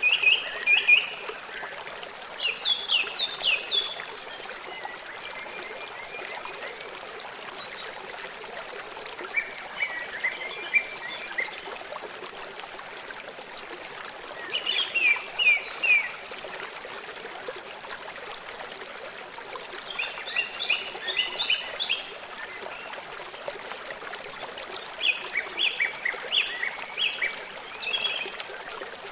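A stream running steadily while a songbird repeatedly sings short phrases of quick high notes, one burst every few seconds.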